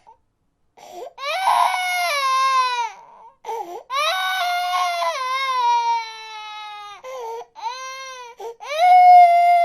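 A baby crying: about four long wailing cries, each sliding down in pitch, with short gasping breaths in between.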